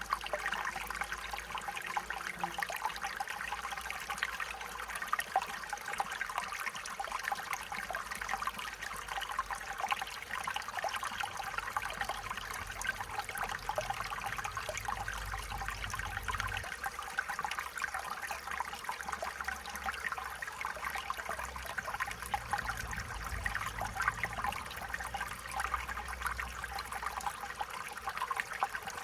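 Stream water trickling and babbling in a steady flow.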